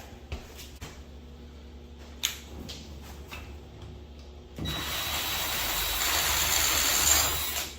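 A few light clicks of handling, then a power drill runs steadily for about three seconds, backing out the screws of an old door handle set.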